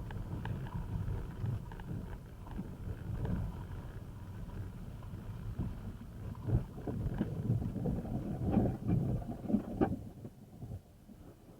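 Car driving, a steady low engine and road rumble with scattered small knocks and bumps; it swells between about six and ten seconds in, then fades.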